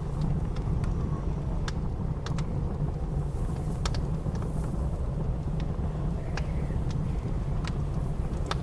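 Wood fire crackling with sharp, irregular pops over the steady low rumble of blizzard wind.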